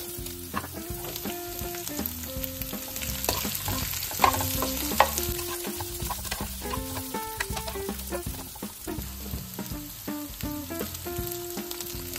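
Romanesco broccoli florets sizzling in hot olive oil in a nonstick wok as they are tipped in and stirred with a spatula. There are two sharp knocks about four and five seconds in.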